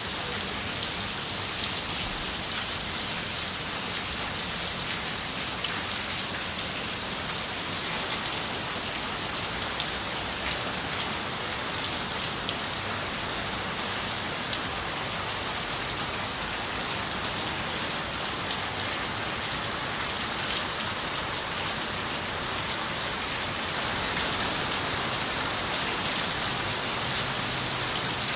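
Steady rain on a window: a dense hiss with scattered sharp ticks of single drops, growing a little louder about four seconds before the end.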